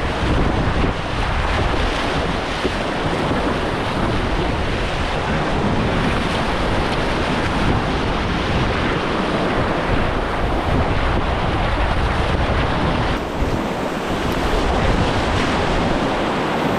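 Loud, steady rush of whitewater in a creek rapid, with low buffeting from water and wind on the microphone.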